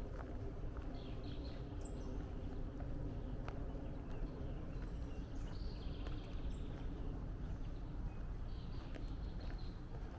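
Footsteps of a person walking along a woodland trail, with songbirds chirping and trilling at intervals over a steady low background.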